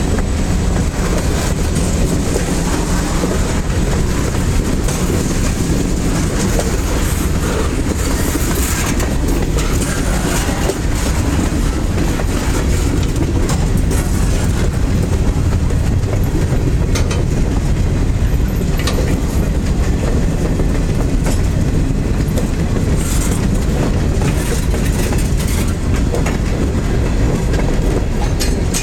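Freight train cars rolling past on the track: a steady low rumble of steel wheels on rail, with scattered clicks and clanks from the rail joints.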